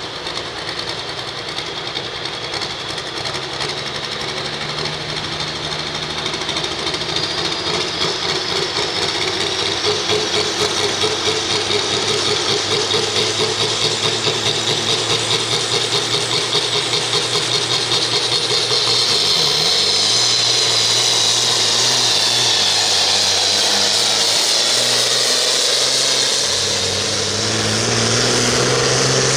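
Turbocharged diesel farm tractor running at full throttle under load in a tractor pull, getting louder over the first several seconds. A high turbo whistle drops in pitch toward the end, and the engine dips briefly near the end before picking up again.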